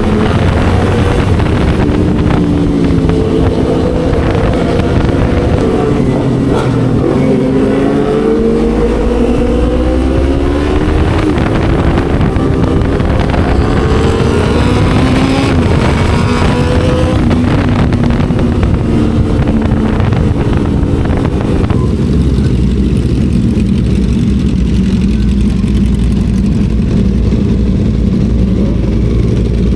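Motorcycle with an aftermarket racing exhaust under way, its engine note rising and falling several times through throttle and gear changes. After about 22 seconds it settles to a steady low note.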